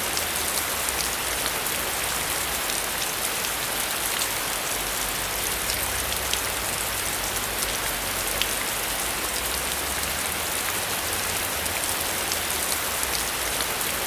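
Steady heavy rain: a dense hiss of rainfall with many sharp individual drop ticks on a hard surface.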